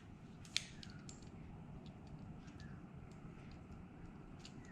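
Faint light clicks and taps of small metal parts being handled, with one sharper click about half a second in.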